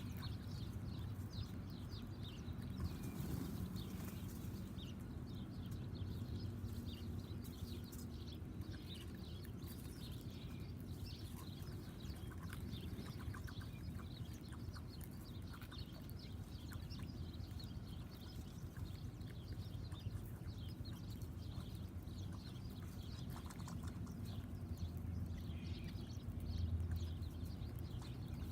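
Small birds chirping in quick, scattered short notes throughout, over a steady low rumble.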